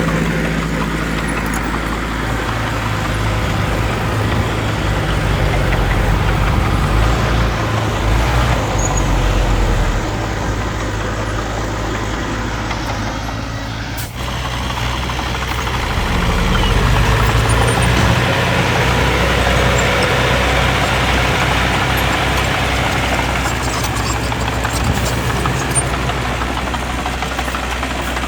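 Heavy diesel engine of earth-moving machinery running steadily, its level swelling and easing as it works, with a brief dip about halfway through.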